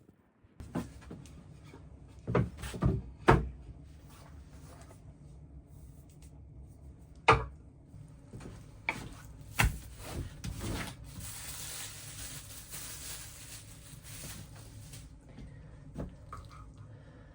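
Objects being handled: a string of sharp knocks and clunks, the loudest about three and seven seconds in, then a steady hiss lasting about four seconds.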